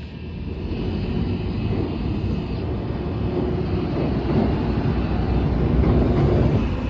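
Low, steady vehicle rumble of engine and road noise that grows gradually louder.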